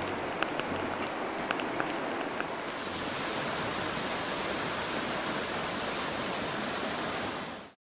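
Steady hissing, rushing noise with a few sharp crackles in the first couple of seconds; the hiss grows brighter about three seconds in and cuts off suddenly near the end.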